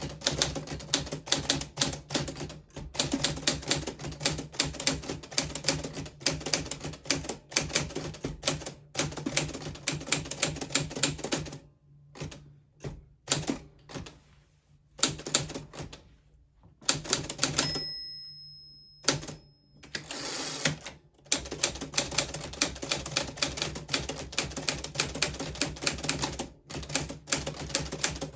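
1940s Smith Corona Silent manual typewriter being typed on in quick, steady keystrokes. About halfway through the typing thins out to a few scattered strokes and a brief ringing tone. Fast typing resumes near the end.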